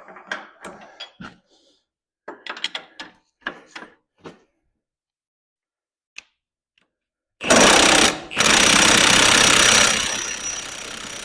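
Light metal clinks of a socket being handled and fitted, then an impact wrench hammering loudly on a 15/16-inch bolt from about seven and a half seconds in, with a short pause, easing off after about two seconds but still running near the end.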